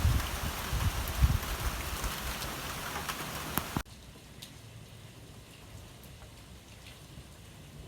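Rain falling: a dense, loud patter with low thuds and sharp drop ticks, which cuts abruptly about four seconds in to a much fainter, even patter of light rain.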